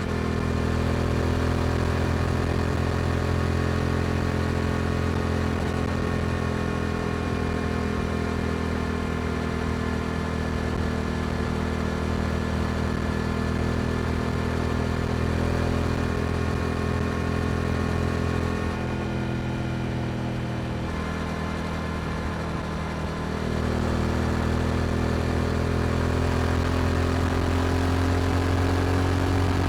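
Yamaha R7's parallel-twin engine through an Akrapovic exhaust, running at a steady cruise. It eases off briefly about two-thirds of the way through, then pulls again, rising slowly in pitch near the end.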